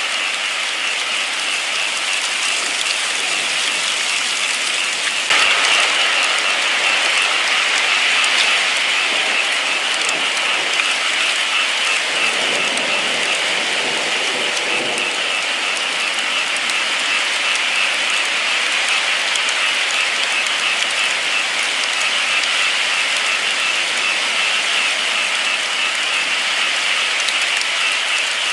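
Steady rain falling, a dense even hiss that grows a little louder about five seconds in.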